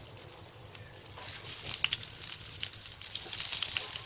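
Spice-coated eggplant slices sizzling in hot oil in a frying pan, a steady hiss with scattered crackles and pops that grows louder about a second in.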